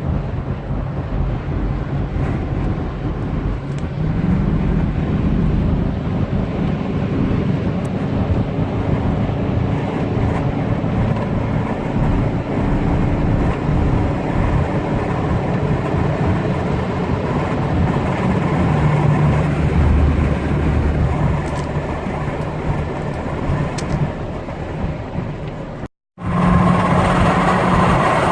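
Engine and road noise of a moving vehicle heard from inside it, a steady low rumble with engine tones that shift in pitch. It cuts out briefly near the end and comes back with a different, brighter tone.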